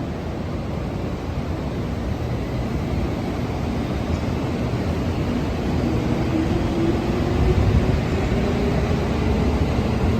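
Train running with a steady rumble that grows louder, and a faint whine that sets in about six seconds in and rises slightly in pitch.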